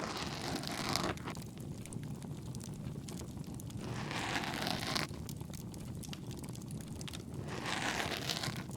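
Ear-cleaning ASMR sound: three rustling scrapes of an ear pick in the ear, about a second each and spaced a few seconds apart, over a steady crackling campfire.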